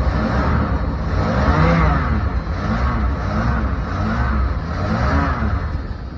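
1987 Dodge D100 pickup's engine running with about five throttle blips, its note rising and falling each time, the biggest about two seconds in.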